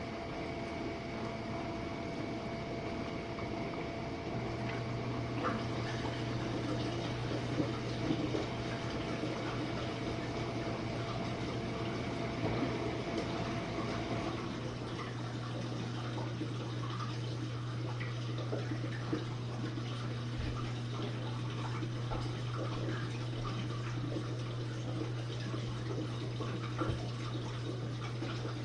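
Jenn-Air dishwasher running its Quick Wash cycle: water sprays and splashes inside the tub over a steady low hum from the pump motor. The hum grows stronger a few seconds in, and a faint higher tone cuts out about halfway through.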